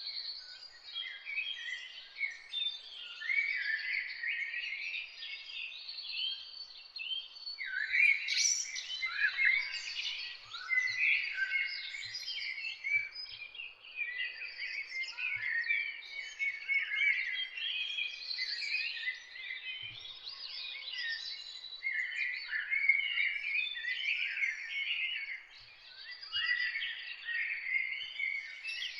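A chorus of many songbirds chirping and singing at once, with quick, overlapping high-pitched notes and short whistled slides that never pause.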